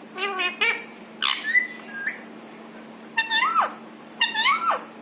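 Indian ringneck parakeet talking: four short, high-pitched mimicked-speech phrases, the last two each ending in a swoop of pitch up and then sharply down.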